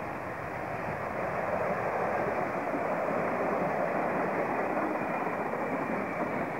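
Stainless-steel Sydney suburban double-deck electric train approaching and passing close by, a steady rush of running noise that grows louder over the first two seconds and then holds as the carriages go past.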